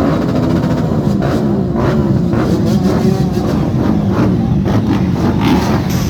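Many motorcycle engines running together in a loud, continuous rumble as a group of motorcycles sets off.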